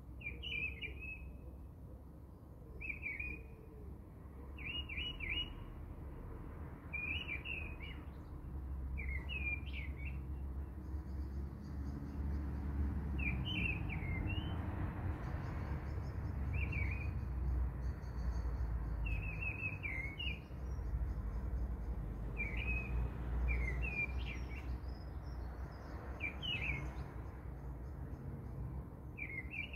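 Small bird chirping in short, quick phrases about every two seconds, with fainter high chirping joining from about a third in, over a low rumble that swells in the middle.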